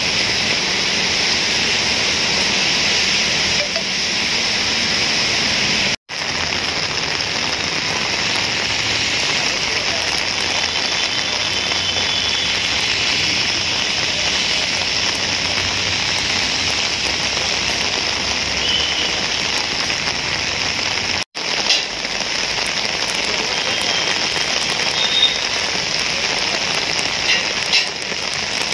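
Heavy rain falling on a street: a steady, even hiss, broken twice by momentary dropouts.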